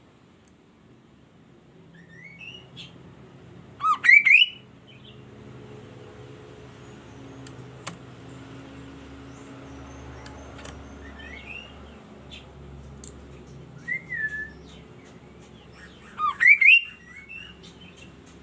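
Kaso-kaso bird calling in short, sharp whistled notes, in two loud clusters about four seconds in and again near the end, with softer single calls between.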